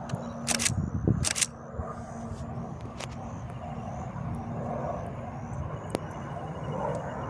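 Pilatus PC-21 turboprop trainer approaching, its engine noise building gradually. Two sharp clicks come about half a second and a second and a quarter in.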